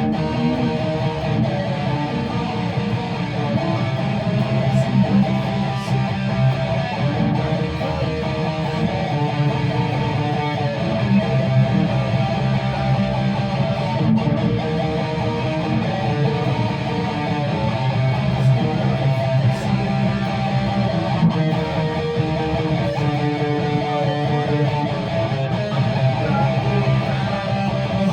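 Guitar being played, a steady run of chords through the whole stretch.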